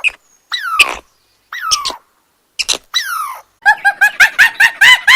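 Animal calls: a few separate squeaky calls that each slide down in pitch, then from about three and a half seconds in a quick run of short calls, about five a second.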